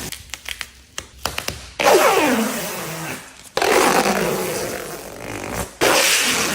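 Protective plastic film being pulled off a new car, in three long rasping rips, each falling in pitch, after a few light crinkling clicks.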